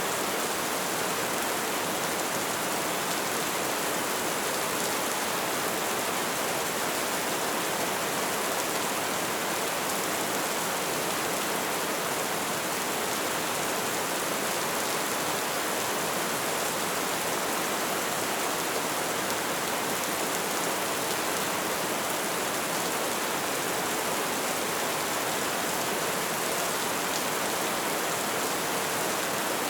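Light rain falling steadily, an even hiss of drops without a break.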